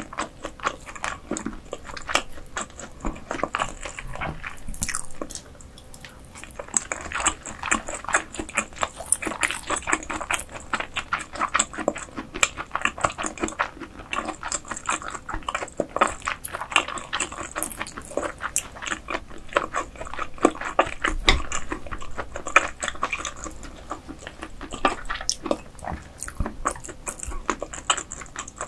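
Close-miked chewing and wet mouth sounds of someone eating croaker: dense sticky clicks and smacks that keep going, with a short quieter pause about five seconds in.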